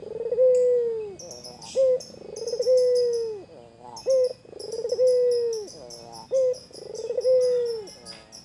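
White ringneck dove (puter) cooing repeatedly: a short note followed by a long, falling coo, about four times in a row at an even pace. Small birds chirp high in the background.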